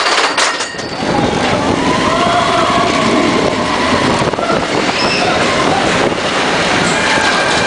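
Steady running noise of a moving vehicle, setting in about a second in, with faint voices under it.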